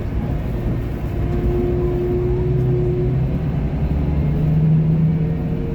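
Scania bus's diesel engine running with a steady low rumble, its note rising a little about four seconds in.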